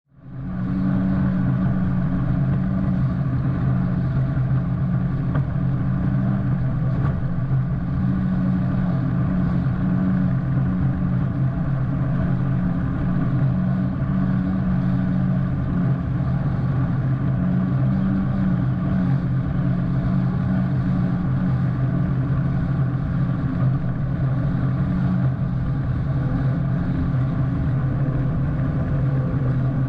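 Yamaha FX-SVHO WaveRunner's supercharged four-stroke engine running at a steady cruising speed, a constant low drone with the rush of water and wind over it.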